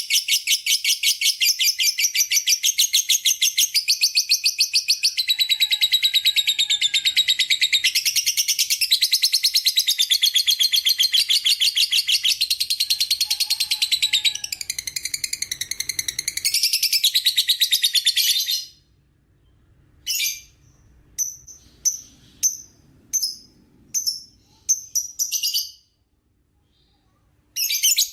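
Lovebird singing a long ngekek: a rapid, unbroken chattering trill of high shrill notes for about eighteen seconds, then it breaks off into a handful of short separate chirps.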